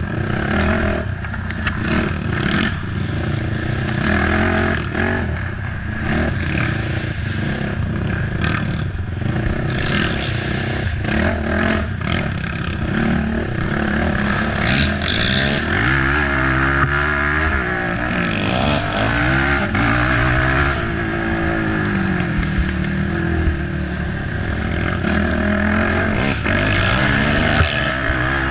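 Race ATV engine revving up and down hard, its pitch rising and falling with the throttle. Sharp knocks and rattles come through, many of them in the first half, from the machine pounding over rough trail.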